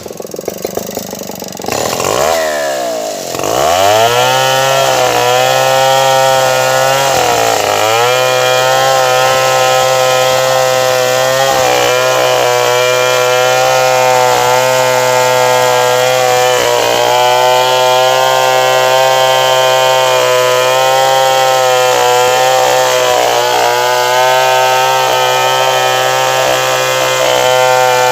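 Stihl 070 two-stroke chainsaw dropping in pitch and revving back up about three seconds in, then running at steady high revs, with small dips in pitch as it cuts wood.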